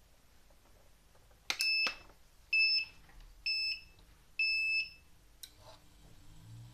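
Treadmill console beeper giving four short high beeps about a second apart, followed by a click. Near the end a low hum starts rising as the treadmill drive motor begins to spin up under the repaired controller.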